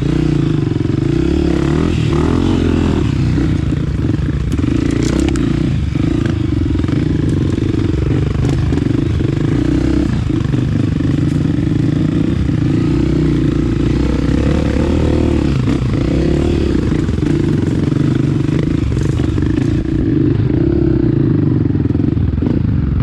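Honda CRF250F single-cylinder four-stroke dirt bike engine running under constantly changing throttle on a trail ride, the revs rising and falling, with a few knocks from the bike over rough ground.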